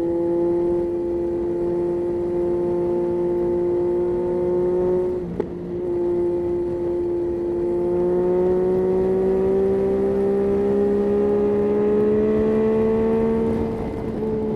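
Yamaha Tracer 9's 890 cc inline-three engine running under throttle on the move. About five seconds in the note breaks briefly with a click, then climbs slowly in pitch as the bike gains speed and drops away near the end as the throttle eases.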